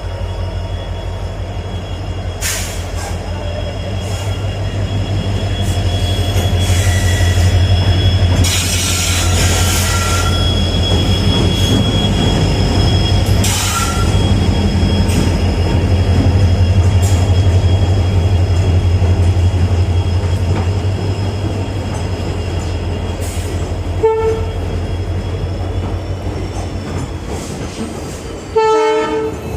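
Train rolling by on the rails: a steady low rumble under a sustained high-pitched wheel squeal, with scattered clacks of wheels over rail joints.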